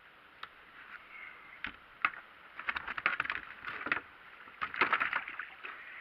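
Water splashing and knocking on a fishing kayak at sea. Scattered sharp clicks build into two dense bursts of splashing, the loudest near the end.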